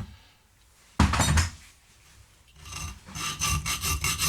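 A solid knock of a workpiece or tool on the bench about a second in, then a hand file starts rasping in quick, even strokes about three seconds in.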